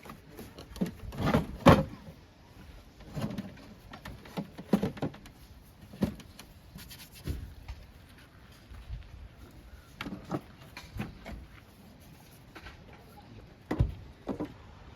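Irregular knocks and clunks of things being handled and set down, loudest about a second and a half in and again near the end.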